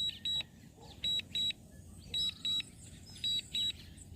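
Drone remote-controller warning alarm: short high-pitched double beeps repeating about once a second.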